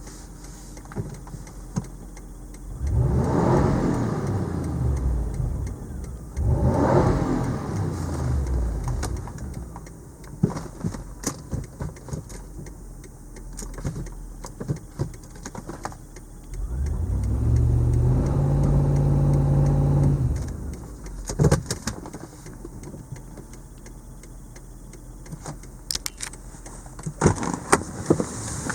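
Toyota 2UZ-FE 4.7-litre V8 idling through a Ganador aftermarket muffler, blipped twice in quick succession early on, each rev rising and falling back to idle, then held up at steady revs for about three seconds before dropping back. A few sharp clicks sound near the end.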